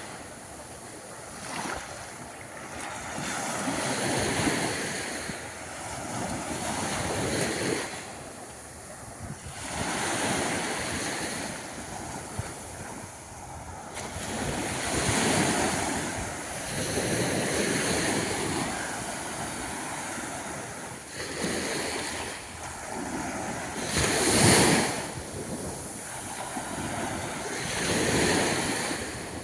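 Small sea waves breaking and washing up a sandy beach in repeated swells every two to three seconds, with a louder one near the end.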